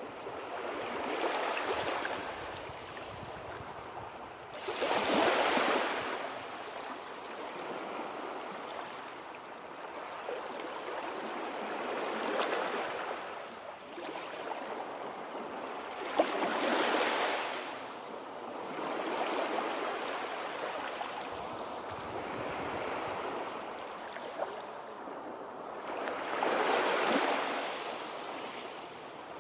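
Sea waves washing onto the shore, each surge swelling and fading every few seconds; the loudest comes about five seconds in.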